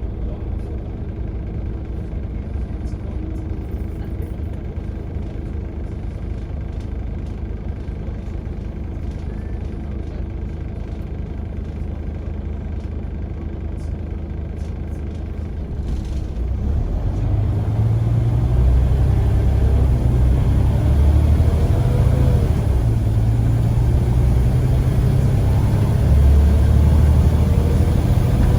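Scania CN94UA bus engine running steadily at a low level, then about sixteen seconds in it grows louder and heavier as the bus pulls away, its note rising through the gears.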